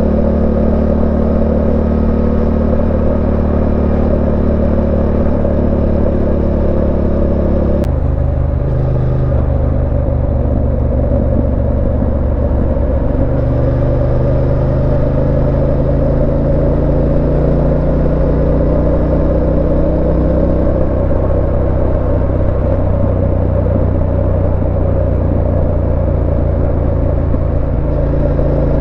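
A 2019 Yamaha Ténéré 700's 689 cc parallel-twin engine running steadily under way. Its note changes abruptly about eight seconds in, then holds, with small shifts in pitch.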